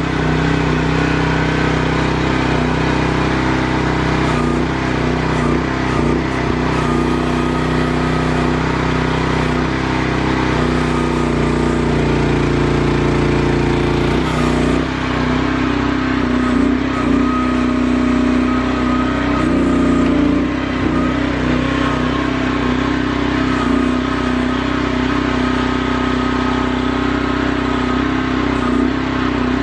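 QH12 mini-excavator's engine running steadily, its note shifting about halfway through.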